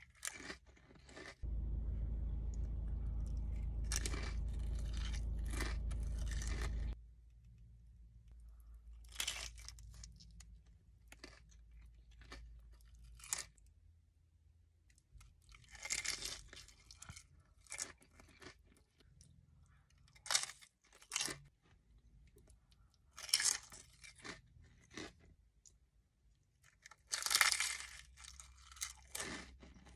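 Close-miked eating: crunchy bites and chewing, loud crunches coming every three or four seconds with softer mouth clicks between. Near the start a steady low hum runs for about five seconds, louder than the eating.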